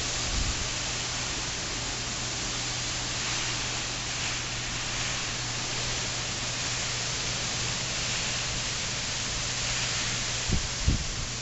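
Hurricane rain and wind: a steady, even hiss, with a couple of short low thumps near the end.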